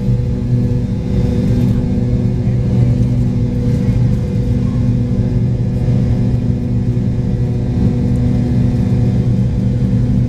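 Steady drone of a McDonnell Douglas MD-83's tail-mounted Pratt & Whitney JT8D turbofans heard inside the rear passenger cabin, a constant low hum over a rumble.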